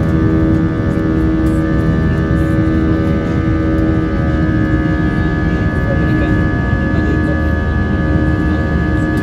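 Airbus A320's IAE V2500 jet engines heard from inside the cabin: a loud, steady rumble with several steady whining tones, the highest whine growing stronger about four seconds in.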